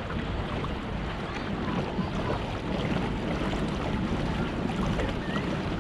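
Water splashing and lapping around a pedal-drive kayak under way, with steady wind noise on the microphone.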